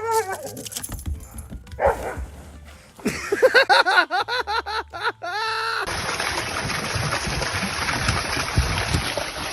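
Dog yelping in a quick string of short, arching high-pitched yips and whines. About six seconds in, the yelping gives way abruptly to a steady rushing noise.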